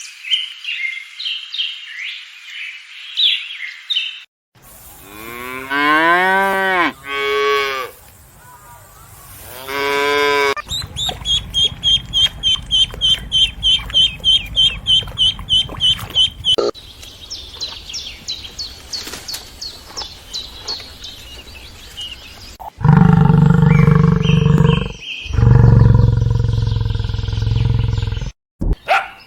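A string of different animal calls, one after another: high chirping at the start, several pitched calls that rise and fall, a fast even run of chirps, and near the end a loud, low cattle moo.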